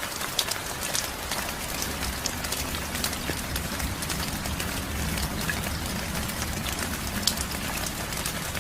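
Steady heavy rain, individual drops making sharp ticks over a constant hiss, with a low rumble underneath from about two seconds in.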